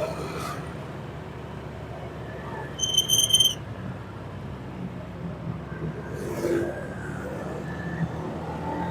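Steady low engine and road hum of city traffic heard during a drive. About three seconds in, a short, high, fluttering tone lasts about half a second and is the loudest sound.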